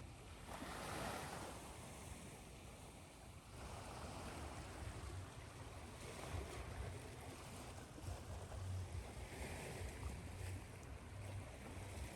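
Recorded ocean waves washing in, swelling and falling back over a steady hiss of white noise, with a low rumble underneath.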